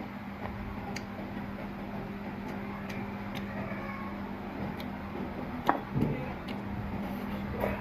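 Eating sounds: scattered light clicks with one sharper click a little before six seconds in, over a steady low hum.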